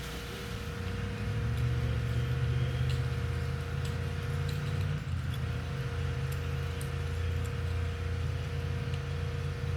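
A large engine running steadily, a low rumble that builds about a second in, with a faint steady hum above it.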